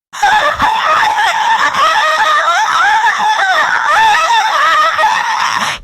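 A loud, harsh, distorted burst of high-pitched synthetic voice, several wavering voices layered into a shriek-like, laughing sound. It cuts in abruptly and cuts off abruptly near the end.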